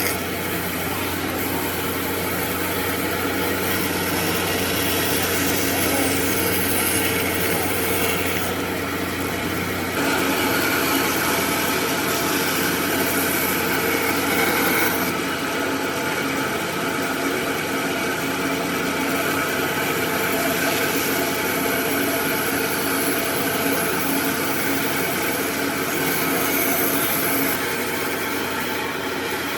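Power tool running steadily while working wood, with a constant hum under a wide grinding noise that shifts in tone about a third and halfway through.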